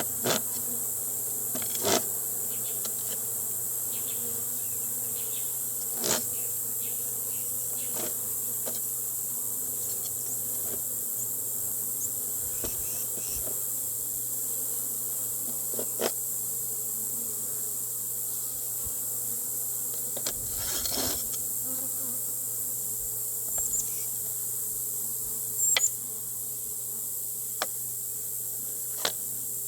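Honeybees buzzing steadily around an open hive. Sharp clicks and knocks come now and then, the loudest about 26 seconds in.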